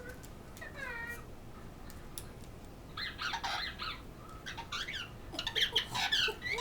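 Pet parrot calling in rough, squawking bursts: a faint call about a second in, then a cluster about three seconds in and a longer run from about four and a half seconds to the end.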